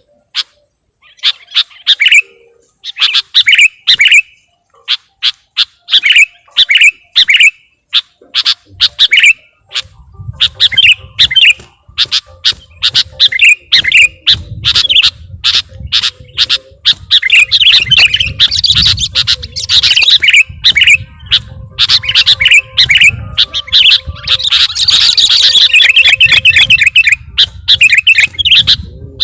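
Sooty-headed bulbul (kutilang) singing loud, rapid phrases of short chirping notes, in short bursts at first and then almost without pause, with a low rumble in the background from about ten seconds in.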